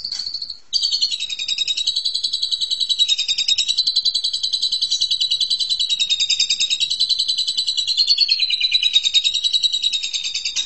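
Asian pied starling (jalak suren) giving a fast, continuous high chattering trill of evenly repeated notes, wavering slightly in pitch. It breaks off briefly just under a second in, then runs on without a pause.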